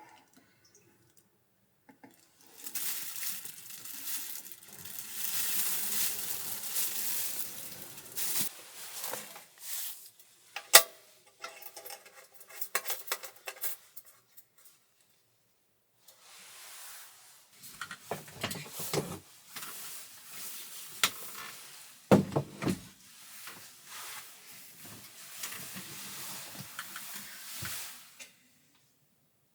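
Camp kitchen work in a small space: two stretches of hissing, like food sizzling in a pan, each starting and stopping sharply, with sharp clinks of pans, dishes and utensils through and between them.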